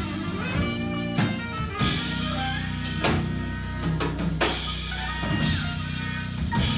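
Band music with a drum kit, bass and guitar playing, the drum hits coming at a steady beat.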